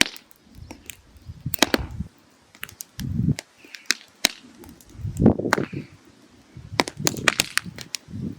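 Firewood burning in a mangal, crackling with irregular sharp pops and snaps, with low rumbling between them.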